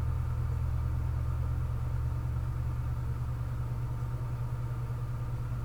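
Steady low hum of a running machine, unchanging throughout.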